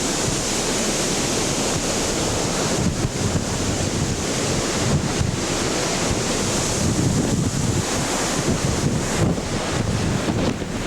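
Storm wind during a hurricane, a steady loud rush with gusts buffeting the microphone.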